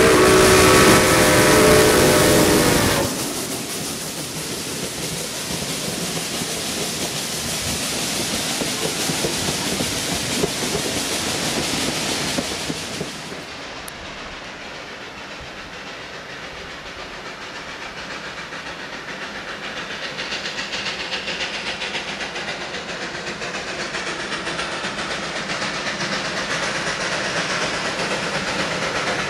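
A train whistle sounds a chord of several steady tones and cuts off about three seconds in. It gives way to steady hissing and running noise from the train, which changes abruptly and drops in level about halfway through, then slowly builds again.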